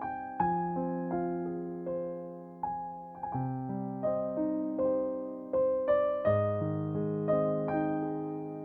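Background music: a soft, slow piano melody over sustained chords, notes struck and left to fade.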